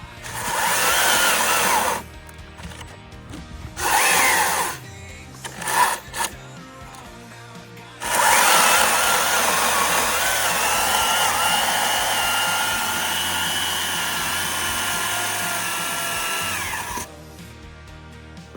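STIHL battery chainsaw's electric motor and chain running in trigger bursts: two short runs and a brief blip in the first six seconds, then a long steady whine of about nine seconds that cuts off sharply near the end.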